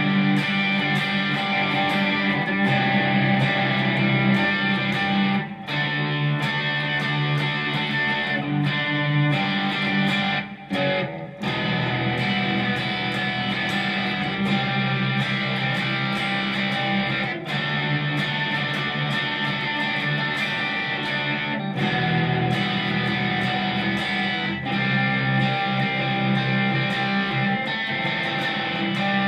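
Squier electric guitar played through an M-Vave MK-300 multi-effects preset, recorded straight from the unit: chords and notes strummed continuously, with a few short breaks.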